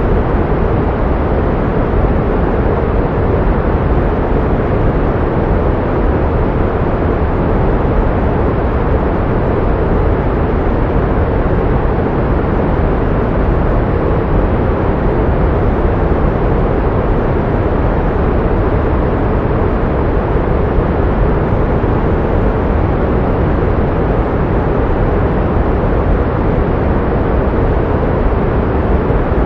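Pink noise: a steady, even rushing hiss, heavier in the low range and fading out in the highs, with no change in level or character.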